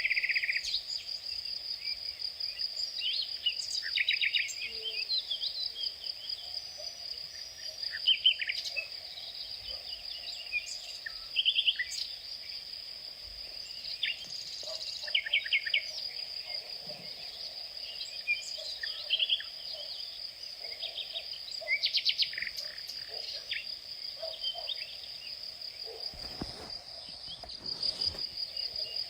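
Outdoor insect chorus: a continuous high, fast-pulsing trill, with birds singing short chirping phrases every few seconds over it.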